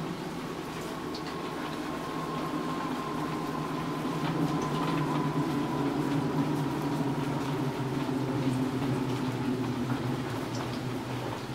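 Rain falling, with scattered sharp drop ticks over a low steady rumble that swells through the middle and eases near the end, and a faint thin whine drifting slowly lower in pitch.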